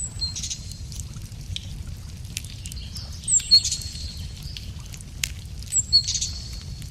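Wood fire crackling with scattered sharp pops over a steady low rumble, while a songbird sings a short high phrase three times, about every three seconds; the second and third phrases are the loudest sounds.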